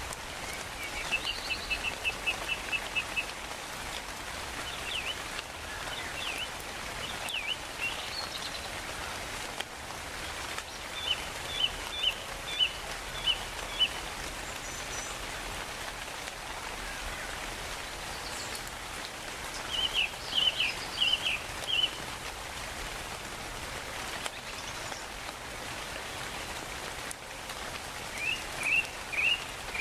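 Steady rainfall hiss with birds calling over it in short runs of quick, high chirps, four times, which are the loudest sounds.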